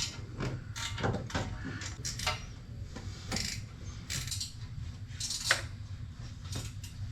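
Hand tools working the bolts of a car's exhaust header: scattered metallic clicks and clanks of wrench and socket on metal, over a steady low hum.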